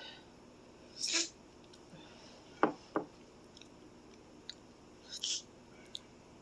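Quiet eating sounds: two brief hissing slurps or breaths, and two sharp taps close together a little before halfway, like a utensil knocking the bowl, with a few faint clicks.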